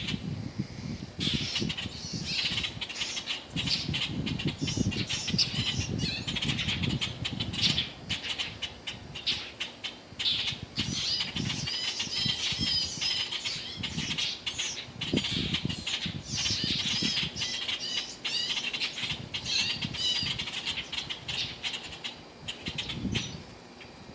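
A baby bird cheeping and squawking in rapid, repeated high-pitched calls, over irregular low rustling and bumps.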